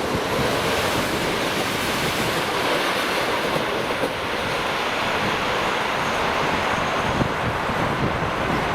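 EP2D DC suburban electric multiple unit running past on the rails, a steady rushing of wheels and running gear whose high end thins after about five seconds as the train draws away.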